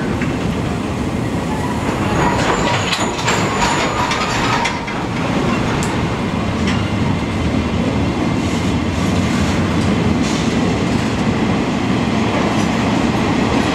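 Freight train pulling out of a station, its wagons rolling past with a steady wheel-on-rail rumble and clatter. Brief wheel squeal between about two and five seconds in.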